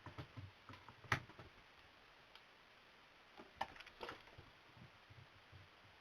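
Scattered light clicks and knocks: a cat playing with its toys. The sharpest click comes about a second in, with another small cluster past the middle and a few soft thuds near the end.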